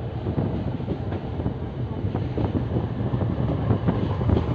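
ICF passenger coach running along the track, a steady rumble with irregular clacks and knocks from the wheels and running gear, heard from the open doorway.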